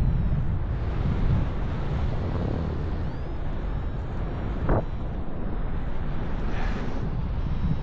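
Gusty wind buffeting the microphone, a steady low rumble, with one brief click a little past the middle.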